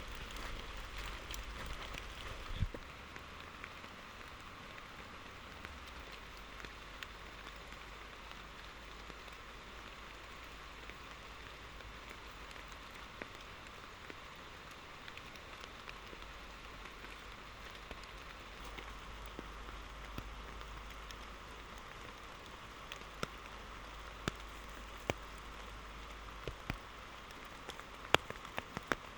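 Steady rain falling, an even hiss with scattered louder drops striking a surface, the single hits coming more often in the last few seconds.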